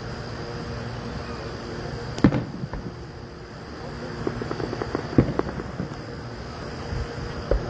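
Fireworks going off: a sharp bang about two seconds in, a run of smaller crackling pops, then another loud bang about five seconds in and a last pop near the end.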